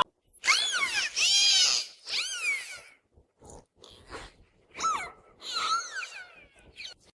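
A cat meowing: a run of short, high meows, each rising then falling in pitch, with pauses between them and a few quieter calls in the middle.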